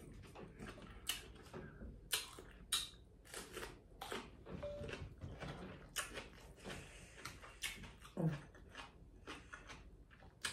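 Close-miked eating sounds: chewing and biting, with irregular sharp crunches and mouth clicks about one or two a second.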